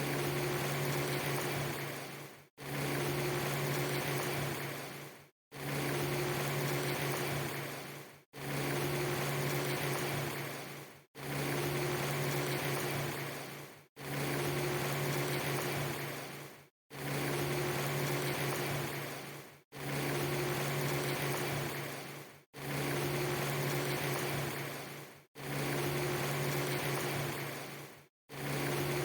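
Steady rushing noise with a low hum, a clip under three seconds long looped over and over. Each repeat starts abruptly, fades away and breaks into a brief silence before starting again, about every three seconds.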